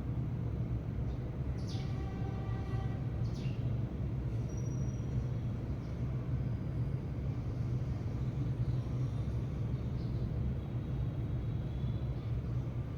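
A steady low rumble runs underneath, with a few short high chirps from sparrows in the first few seconds.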